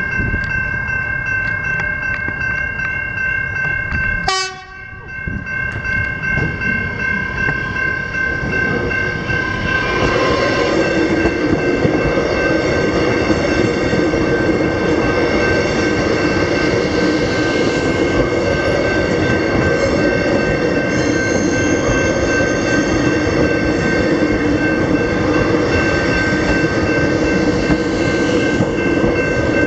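Level crossing bells ringing steadily while a suburban train passes over the crossing. The train's running noise grows loud about ten seconds in and holds. There is a brief dropout in the sound about four seconds in.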